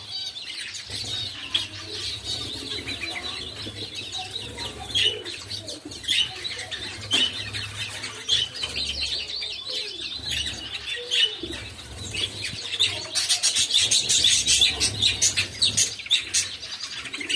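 A mixed flock of small cage birds (finches, Java sparrows, a goldfinch and a bulbul) chirping and calling together, with flutters of wings. The chirping grows busier and louder in the last few seconds.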